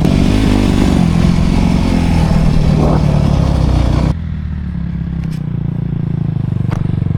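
Dirt bike engine running, with rattle and rushing noise over it. About four seconds in the sound drops abruptly to a quieter, lower steady engine note with a few clicks.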